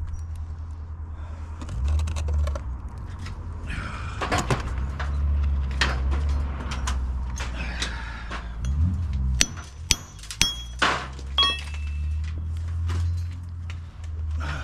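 Bricklaying tool work: a trowel scraping, then a quick run of about five sharp taps and clinks of metal on brick two-thirds of the way through, over a steady low rumble.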